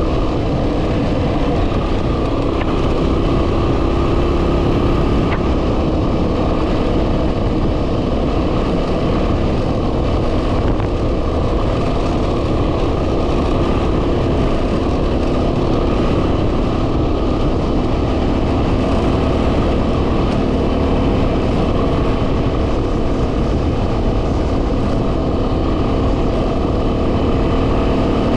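2010 Yamaha WR250R's single-cylinder four-stroke engine running at a steady cruising speed, with heavy wind rumble on the helmet-mounted microphone.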